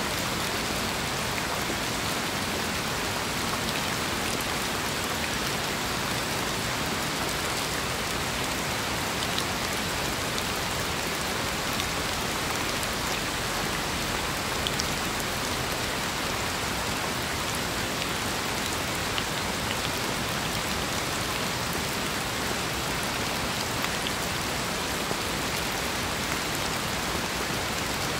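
Steady rain falling, an even hiss with the odd sharper tick of a single drop.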